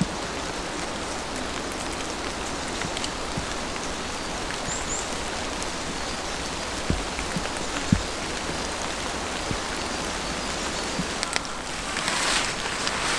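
Steady rain falling in woodland, with scattered drops ticking and a couple of heavier drops thudding. Near the end the rain swells louder for a moment.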